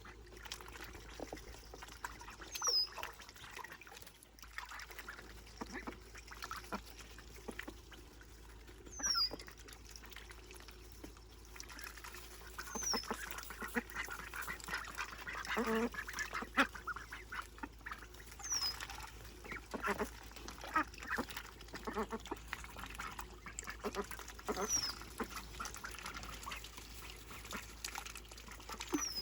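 Ducklings peeping: a short, high call that falls in pitch comes every few seconds, over many small clicks and splashes from the birds in shallow water.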